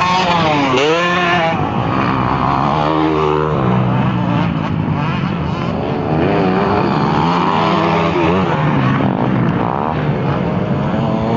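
Several motocross motorcycle engines revving at once, their pitch rising and falling repeatedly with throttle and gear changes.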